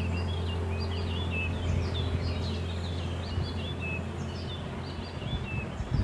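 Birds chirping and whistling in many quick short calls, over a steady low hum, with a couple of soft knocks near the end.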